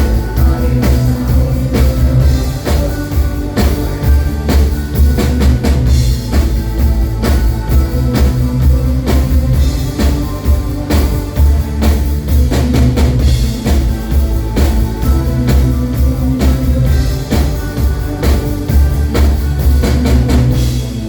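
Band playing loud live music: a steady drum beat over heavy bass.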